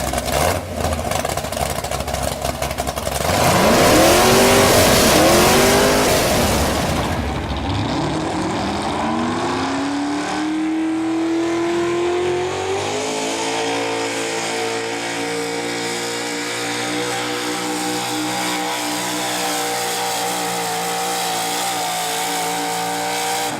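Modified gas pulling truck's engine at full throttle during a pull. It is loudest about four to six seconds in, with the pitch rising and dipping several times, then it climbs and holds a high, steady pitch, cutting off suddenly at the end.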